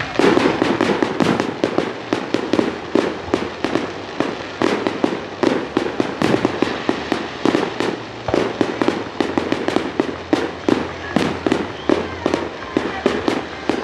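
Fireworks going off in a rapid, continuous barrage: sharp bangs and cracks several a second, overlapping without a break.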